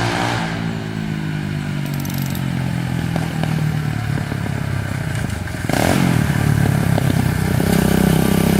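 SSR 125 pit bike's single-cylinder four-stroke engine running as it is ridden, getting louder about six seconds in. With its pilot jet cleaned and the mixture screw set one turn out, it is running much better and sounds like it's ripping.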